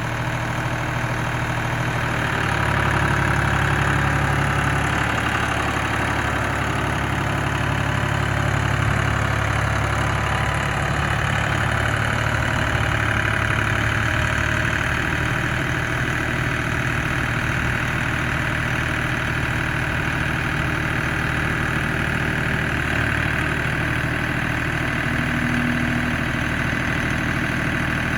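International 385 tractor engine idling steadily, getting a little louder and fuller about two seconds in.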